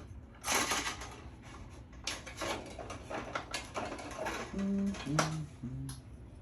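Clattering, scraping and clicking of metal parts being handled while a band saw blade is changed, with three short low hums a little before the end.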